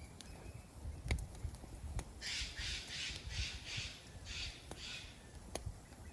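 A crow cawing: a quick run of about eight harsh caws starting about two seconds in, with a few sharp crackles from a wood campfire.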